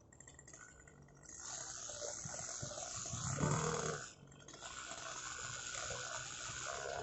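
OS 46 two-stroke glow (nitro) engine of an RC model plane running at high speed in flight. It grows louder about a second in, is loudest as the plane passes close near the middle, fades briefly, then comes back.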